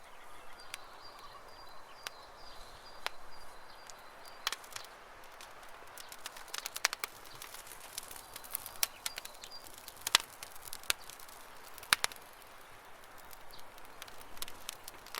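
Campfire crackling with scattered sharp pops, the two loudest about ten and twelve seconds in. A high, rapidly pulsed bird trill sounds through the first four seconds and briefly again about nine seconds in.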